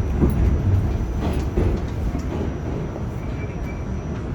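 R46 subway train running along the track, a continuous low rumble of wheels and car body with a few sharp rail knocks about a second in.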